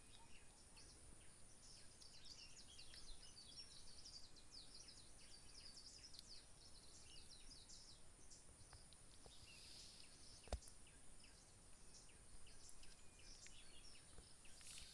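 Faint outdoor ambience: scattered small bird chirps over a steady, thin, high-pitched hum that fades near the end, with one sharp click about ten and a half seconds in.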